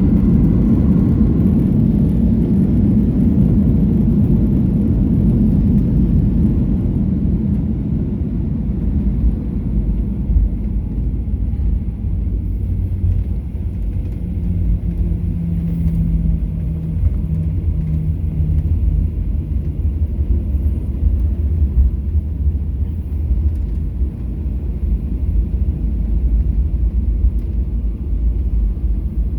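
Boeing 737-800 cabin rumble from a window seat: engine and airflow noise, heaviest for the first several seconds and then easing a little. A short steady hum joins it around the middle.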